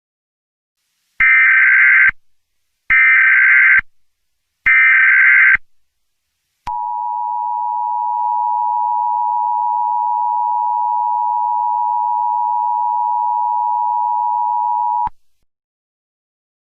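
Emergency Alert System header: three short digital SAME data bursts of about a second each, then the steady two-tone EAS attention signal, held for about eight seconds before it cuts off.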